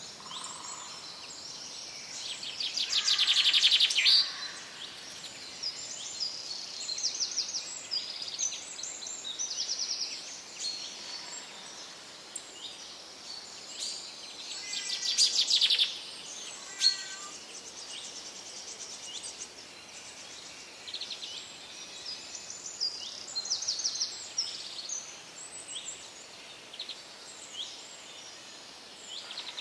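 Small birds chirping and twittering steadily, with two louder, rapid rattling trills, a few seconds in and about halfway through.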